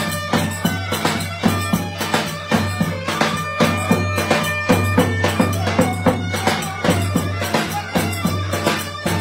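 Traditional Turkish folk dance music: a reedy wind instrument playing a melody over a steady low drone, with a drum beating an even rhythm of about three strokes a second.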